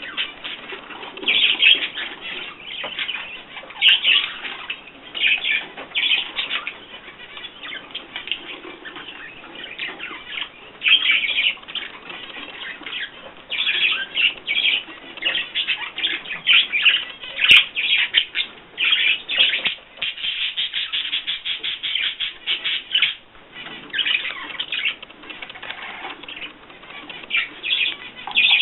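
Small cage birds chirping and chattering in many short, irregular bursts, busiest about halfway through.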